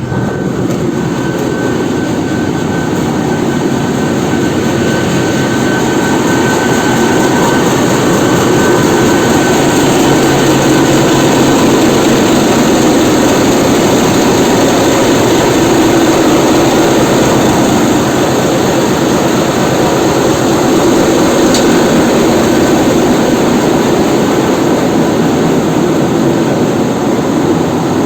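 Loud, steady noise of a tanker's engine room, with its machinery running together, and a thin high whine that fades out about a third of the way in.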